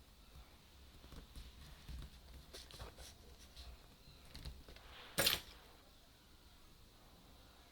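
Small clicks and taps of camera parts being handled, with one louder, sharp click about five seconds in.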